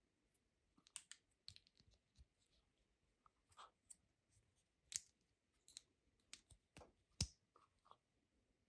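Faint, scattered clicks and light taps of small objects being handled, about a dozen in all, with two sharper ones in the second half.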